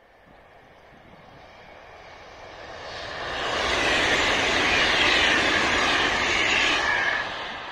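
Italo AGV (ETR 575) high-speed electric train passing at speed: a rush of wheels and air that builds, stays loud for about three seconds as the carriages go by, then drops off sharply near the end as the last car passes.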